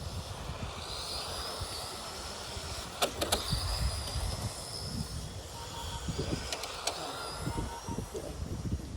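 Electric motors of radio-controlled Tamiya race trucks whining as they drive, the pitch rising and falling with throttle, over a low rumble. A few sharp clicks come about three seconds in and again near seven seconds.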